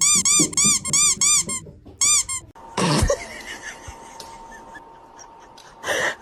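A rapid run of high-pitched squeaks, about four a second, each rising and falling in pitch; they stop about one and a half seconds in and come back briefly around two seconds. About three seconds in there is a noisy rush with a low thump, and another short rush near the end.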